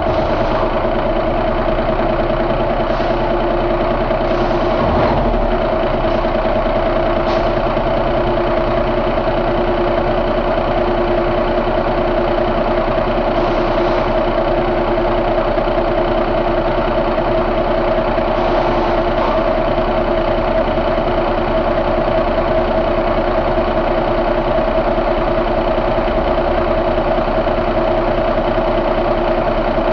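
2007 Cummins ISX inline-six diesel engine idling steadily, just after starting.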